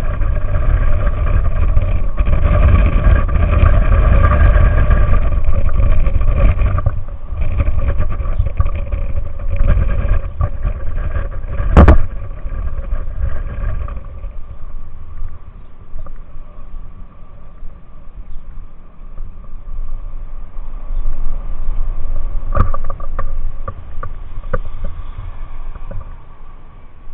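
A motor vehicle's engine running steadily under a heavy low rumble that eases about halfway through, with one sharp click or knock about twelve seconds in.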